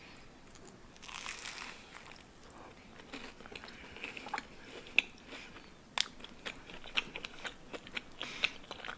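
A person biting into a slice of avocado toast, a crunch of toast about a second in, then chewing it with a string of small, irregular crunches.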